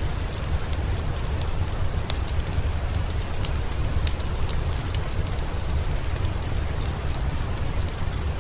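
Steady rain ambience with a deep low rumble, over which scattered sharp crackles of a fireplace fire pop here and there.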